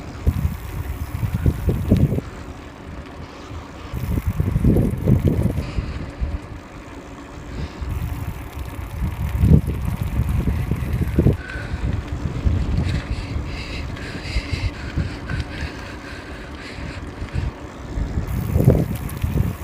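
Wind buffeting the microphone while riding a bicycle, in irregular low gusts over a steady rolling rush.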